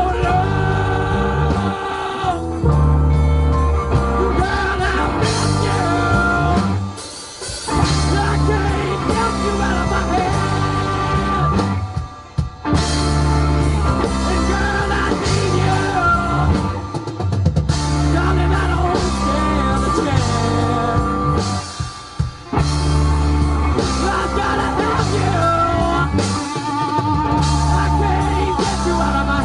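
Rock band playing a song with singing, over a heavy bass line, guitar and drums; the music drops away briefly a few times.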